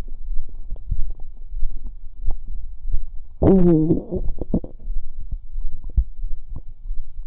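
Human stomach and gut gurgling: a steady low throbbing full of small bubbling pops and clicks, with one louder, pitched, squeaky gurgle lasting about half a second around three and a half seconds in.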